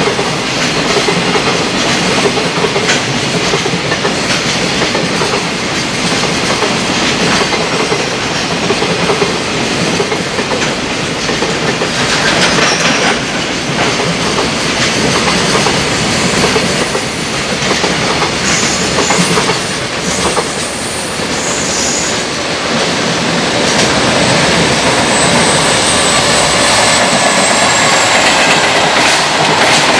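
Long container freight train rolling past, its wheels clattering steadily over the rail joints, with a thin high squeal for a few seconds about ten seconds in.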